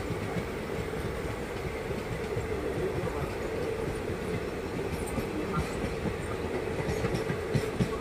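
Passenger express train running on the track, heard from an open coach doorway: a steady rumble of wheels on rail with clickety-clack, and a few sharper clacks in the second half.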